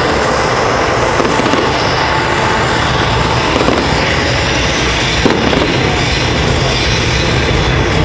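Continuous barrage of exploding fireworks: dense crackling and popping over a steady rumble of bursts, with a sharper bang about five seconds in.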